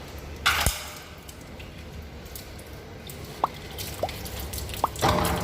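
Water dripping into standing water inside a waterlogged pump pressure tank as it drains through the opened top: three separate plinking drops in the second half, after a brief loud splashy knock about half a second in.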